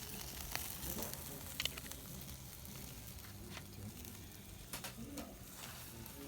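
Chicken and meat skewers sizzling on a campfire grill, with a handful of sharp pops and crackles scattered through.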